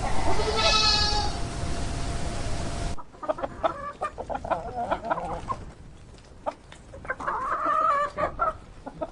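One long animal call in the first second and a half, then, after a cut, chickens clucking: short sharp clucks with two longer calls.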